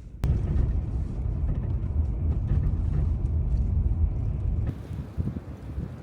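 SUV driving, a steady low rumble of engine and road noise that starts suddenly and eases off near the end.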